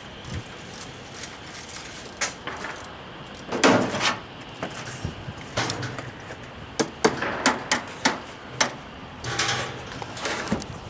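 Irregular knocks and hammer taps from sheet-metal work on a chimney. There is a longer clattering knock about four seconds in, a quick run of about six sharp taps a couple of seconds later, and more clattering near the end.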